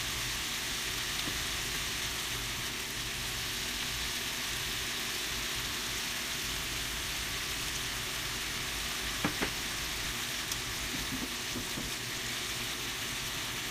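Sliced beef, green pepper and carrot sizzling steadily in a frying pan as they are stir-fried, with a couple of sharp knocks about nine seconds in.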